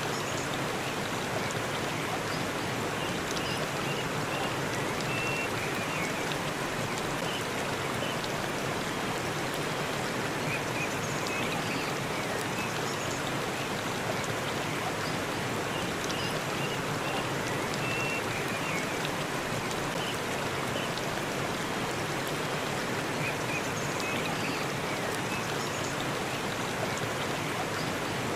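Waterfall rushing steadily, with a few faint, short, high chirps here and there.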